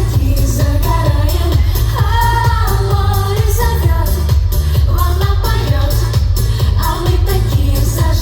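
Live pop music from a concert PA: women singing over a steady dance beat with a heavy bass.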